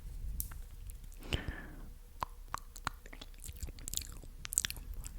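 Close-miked ASMR mouth sounds: a string of irregular wet clicks and smacks of the lips and tongue, with a short breathy sound about a second in.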